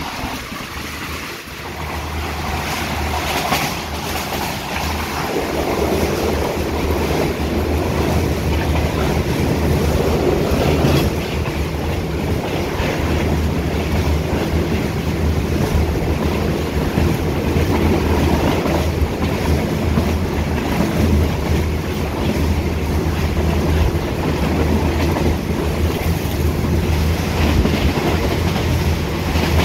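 Express passenger train running at speed, heard at an open carriage window: a steady rumble of wheels on the rails with rushing air and an occasional clack over rail joints. It grows louder over the first few seconds as the train picks up speed, then holds steady.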